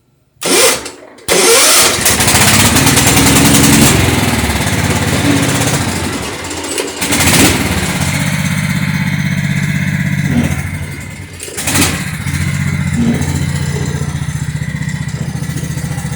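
Kohler Command 16.5 hp engine on a lawn tractor briefly cranked about half a second in, catching a moment later and running loudly. Its speed sags and recovers twice, running unevenly because the throttle and choke share one lever and it won't settle to an idle.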